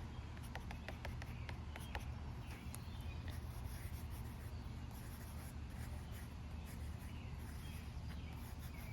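A pen scratching and tapping on sketchbook paper in short strokes, mostly in the first few seconds. Underneath is a steady low rumble of wind and distant traffic, with faint bird chirps.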